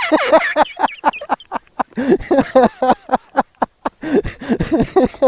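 A man laughing hard, in quick loud bursts of several a second, heard close up through a motorcycle helmet intercom.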